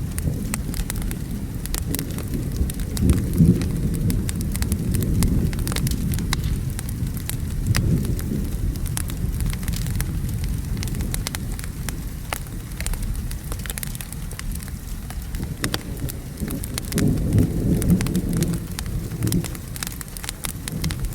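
Thunderstorm ambience: steady rain with low rolling thunder that swells several times, mixed with a wood fire crackling in frequent sharp pops.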